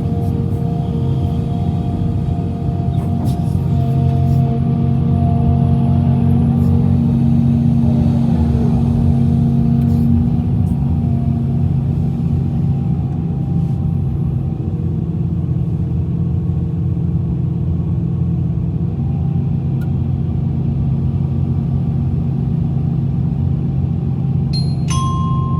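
Heavy diesel engine of earthmoving machinery running steadily, working harder for several seconds about a quarter of the way in. A short high beep sounds near the end.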